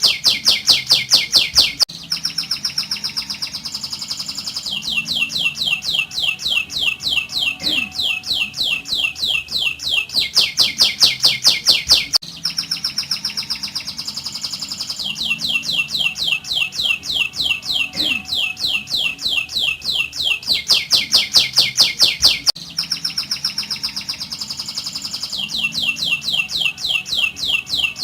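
Domestic canary singing its rolling song: long runs of rapid, high trills, one running straight into the next at different speeds and pitches. The same run of phrases comes round again about every ten seconds.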